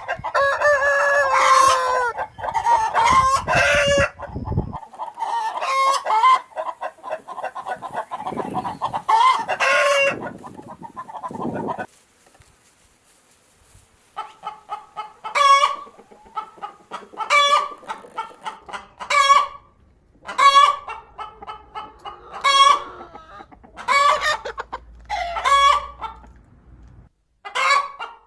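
Chickens clucking and cackling loudly. The calls break off for a couple of seconds about twelve seconds in, then come back as a run of short repeated calls about once a second.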